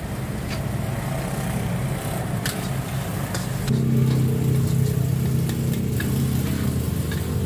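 A motor vehicle engine idling steadily, with a low hum that grows louder a little past halfway through. A few faint clicks sound above it.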